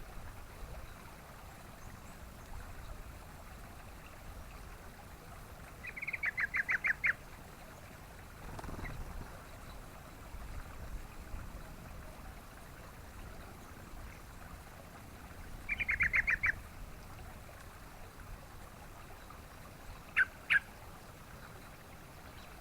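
Yellow-vented bulbul (trucukan) calling: two quick bubbling bursts of about eight notes each, then two single sharp notes near the end, over a faint steady hiss.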